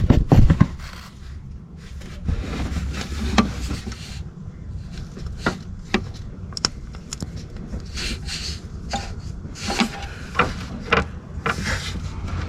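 Irregular clicks, light knocks and scraping of hand tools and metal parts being handled, with rubbing sounds between them.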